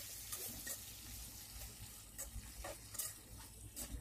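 Brinjal pieces shallow-frying in oil in a kadai, sizzling faintly while a metal slotted spoon stirs and turns them, with scattered clicks and scrapes of the spoon against the pan.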